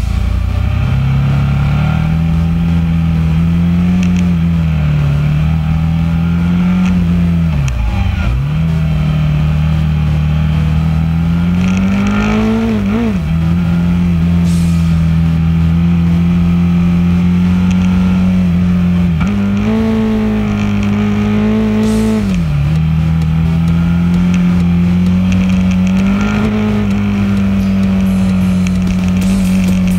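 Twin-cylinder motorcycle engine heard from an onboard camera while riding a mountain road, its note holding steady, climbing and dropping sharply a few times with throttle and gear changes.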